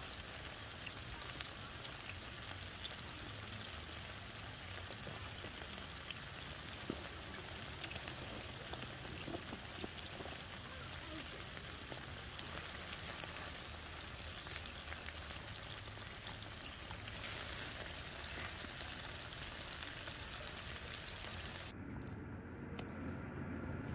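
Meat in red chili sauce sizzling in a grill pan on a portable gas stove: a steady crackling hiss with small pops. Near the end it cuts to a duller, lower sound of a Welsh corgi gnawing on a chew treat.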